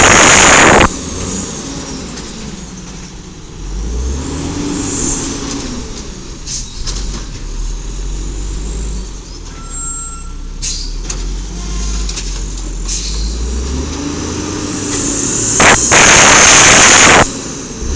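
Garbage truck's air brakes letting off two loud hisses, one at the start and one near the end, with the truck's engine rumbling low in between.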